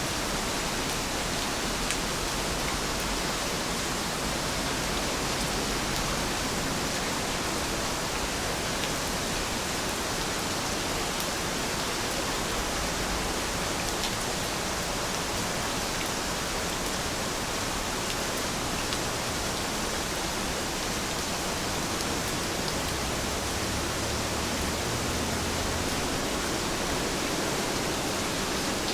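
Heavy rain falling steadily as a dense, even hiss, with a few faint sharp drop ticks now and then.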